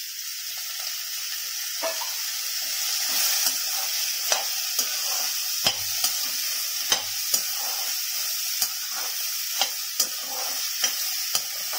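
Sliced button mushrooms sizzling in hot oil in a kadai, stirred with a perforated metal ladle. The ladle scrapes and clicks against the pan about once a second over a steady frying hiss.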